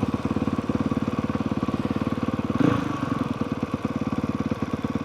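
Honda CRF450R's single-cylinder four-stroke dirt-bike engine idling steadily with an even firing pulse, briefly a little louder about halfway through.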